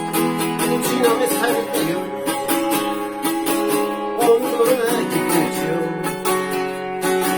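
Acoustic guitar strummed in a steady rhythm: the instrumental opening of a self-accompanied song.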